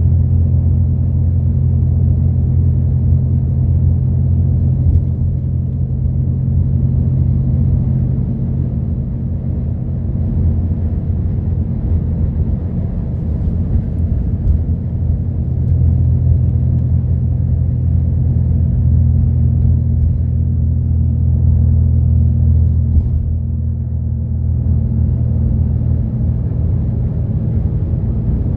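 Route bus running along the road, heard inside the passenger cabin: a steady low engine drone with road and tyre rumble, easing slightly twice.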